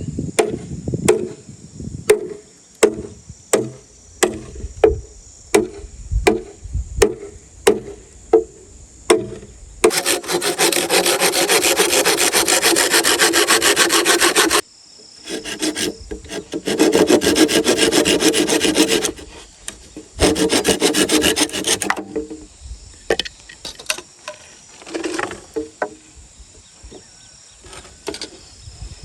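Bamboo being cut and worked by hand: sharp knocks about twice a second at first, then a hand saw cutting through bamboo in three runs of fast strokes, the first about five seconds long, followed by a few scattered knocks.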